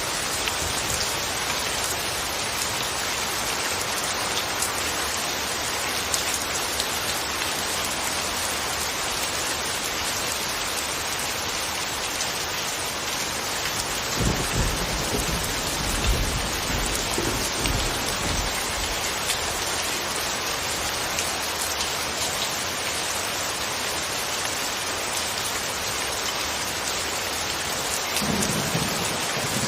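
Steady rain falling with an even hiss. A low rumble rises about halfway through and lasts several seconds, and a shorter one comes near the end.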